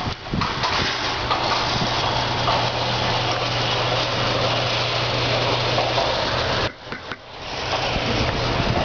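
Honda Civic making the grinding noise the owner wants advice on: a steady low hum under a wide rushing noise. It drops out briefly about seven seconds in, then comes back.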